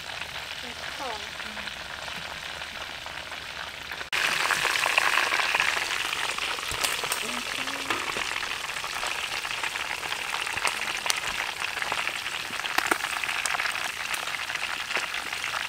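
Chicken legs frying in hot oil in a wok: a steady sizzle with small crackles. It turns abruptly louder about four seconds in.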